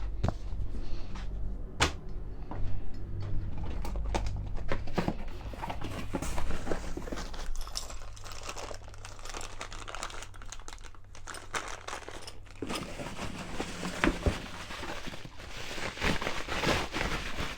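Packaging being handled as parts are unpacked from a box: crinkling and tearing of wrapping with scattered knocks and clicks.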